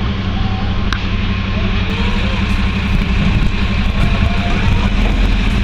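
Heavy vehicle engine running steadily with a strong low hum.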